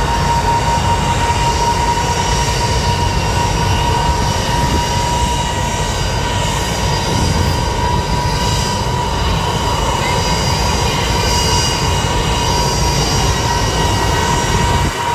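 Jet aircraft engine running steadily: a deep rumble with a high whine held at one pitch.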